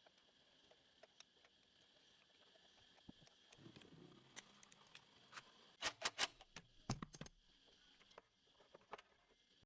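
Faint, scattered clicks and light taps over a low background hum, with a short run of sharper clicks about six to seven seconds in.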